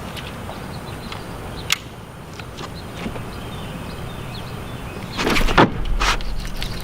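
A few sharp clicks over a steady low background, then a loud burst of splashing water starting about five seconds in.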